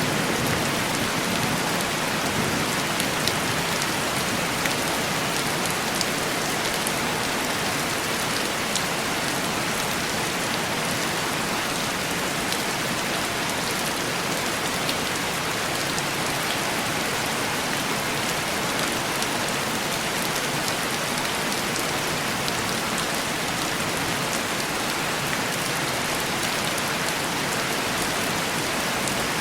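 Heavy rain falling steadily and tapping on window glass: an even hiss with scattered small drop ticks.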